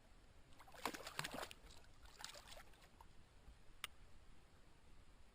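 Faint water splashing in short bursts, a hooked spotted bass thrashing at the surface as it is reeled in: one flurry about a second in, a smaller one a little after two seconds, and a single sharp click near four seconds.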